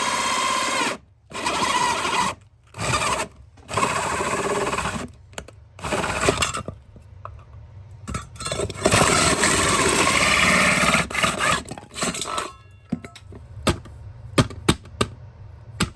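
SDS-max rotary hammer drill with a 6-inch core bit boring through brick, running in repeated bursts of one to two seconds with short stops between, then a longer run of about two seconds. Scattered sharp knocks follow near the end.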